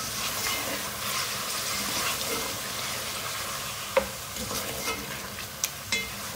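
Beef and masala sizzling in a metal pot while a wooden spatula stirs them, during the bhuna frying after a splash of water. A few sharp knocks of the spatula against the pot, the loudest about four seconds in.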